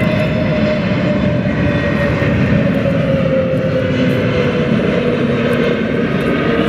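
Jet airliner passing close on final approach to land. Its engines make a loud, steady rush with a whine that falls slowly in pitch as it goes by.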